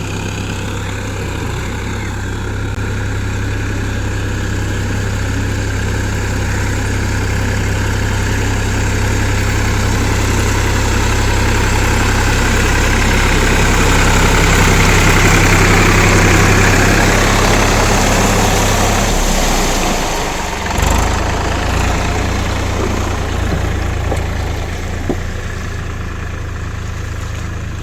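Massey Ferguson tractor's diesel engine running steadily and growing louder towards the middle, then dropping in level and note about two-thirds of the way through, with a brief knock soon after.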